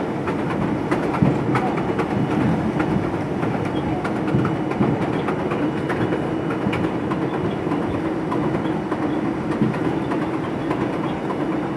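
R42 subway train running on track, with a steady rumble and frequent short clicks of wheels over rail joints.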